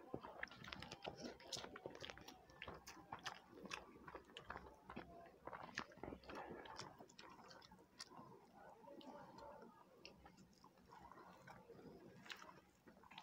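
Faint, close chewing of rice and curry eaten by hand, with many small irregular mouth and finger clicks.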